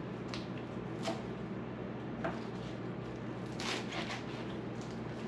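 Light kitchen handling noises during salad preparation: a few soft clicks and rustles over a steady low hum.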